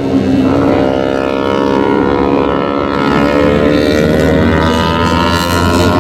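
MotoGP racing motorcycle engine at high revs, its pitch climbing steadily through the second half as the bike accelerates.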